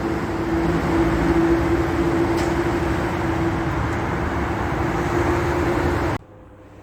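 A vehicle running steadily, a loud even noise with a constant hum, cutting in suddenly and cutting off abruptly about six seconds in.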